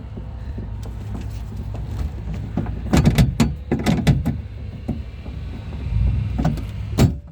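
Long flathead screwdriver working on the latch rod clip inside a Honda CR-V's front door shell: a run of metal clicks and knocks about three to four seconds in, and one sharp click near the end, over a steady low rumble.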